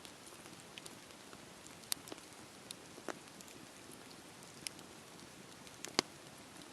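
Campfire burning: a soft steady hiss with scattered sharp crackles and pops of the burning wood, the loudest pop about six seconds in.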